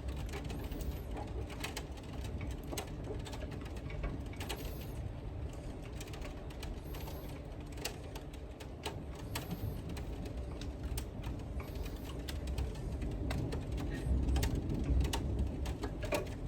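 Thunderstorm wind during a lull: a steady low rumble with irregular sharp ticks scattered through it.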